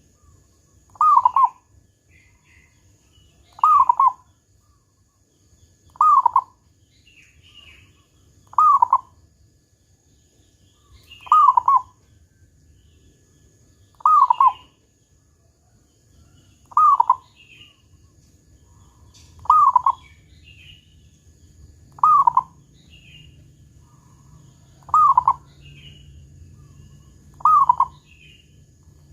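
Zebra dove (perkutut) cooing with a big, deep 'kung' note, one short call repeated about every two and a half seconds.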